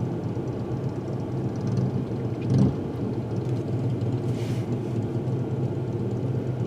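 Steady road and engine rumble inside a moving car's cabin, with a brief louder bump about two and a half seconds in.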